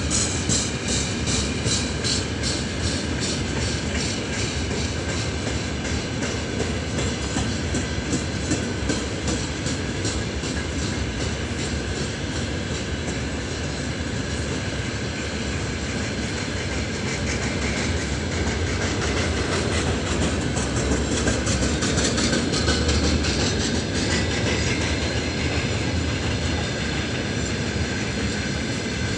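A freight train's open gondola wagons rolling past, their steel wheels clattering in a steady rhythm on the rails.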